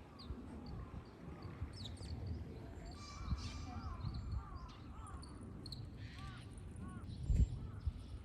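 Several wild birds calling: repeated short arched notes in the middle, higher chirps, and a quick run of high notes about three seconds in, over a low rumble, with a single thump about seven seconds in.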